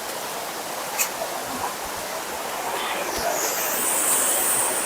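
Running water, a steady even rush. A faint high-pitched sound rises over it in the second half, and there is one small click about a second in.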